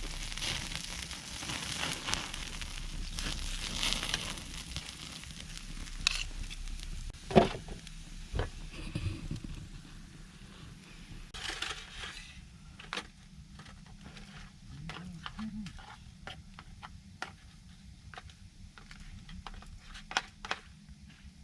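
Wood campfire burning, crackling and popping with a hiss that fades after about twelve seconds, leaving scattered sharp snaps; one loud pop about seven seconds in.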